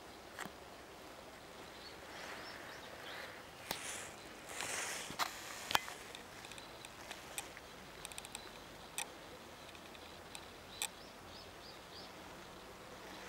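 Garden ambience: scattered rustling and sharp clicks, loudest a few seconds in, with a few faint high chirps near the middle and end.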